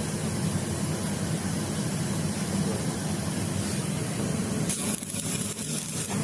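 Steady workshop machine noise with a hiss; a brighter, sharper hiss comes in for about a second near the end.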